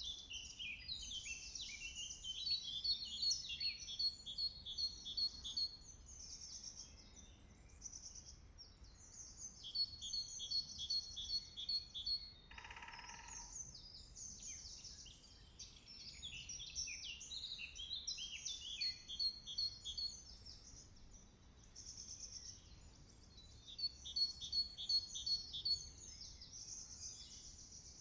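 Several songbirds singing over one another, with repeated rapid series of high, even notes. About halfway through there is one short, lower call.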